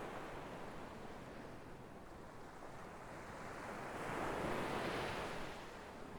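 Sea waves washing on a shore: a quieter lull, then one wave swells about four seconds in and breaks before easing off.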